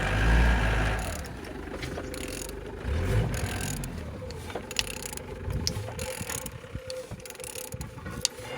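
A used 18K4F engine being turned over by hand, with mechanical clicking and uneven low rumbling strokes as the crankshaft rotates. It turns freely, with nothing binding.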